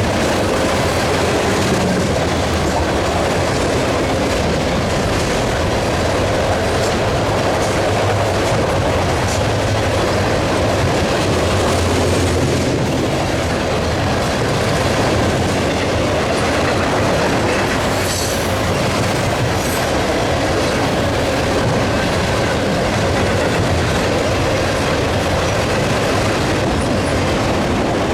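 Freight train cars rolling past at steady speed: continuous wheel-on-rail noise with repeated clicks of wheels over rail joints and some wheel squeal.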